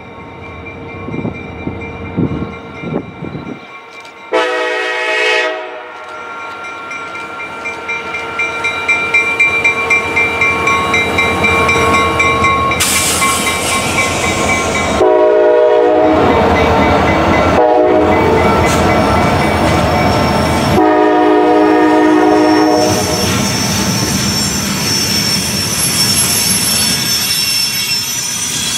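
Norfolk Southern diesel freight train passing close by, its locomotive air horn sounding: one blast about four seconds in, then several longer blasts from about fifteen seconds in as the locomotives go by. Under the horn, the diesel engines run and the wheels clack on the rail, getting louder as the train draws near.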